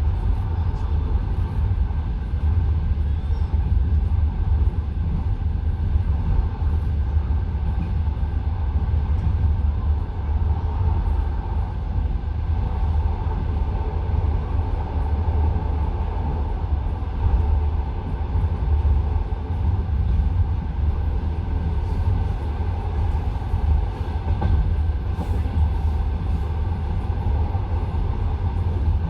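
Passenger train carriage running along the line, heard from inside the car: a steady low rumble with the clatter of the wheels over the rails.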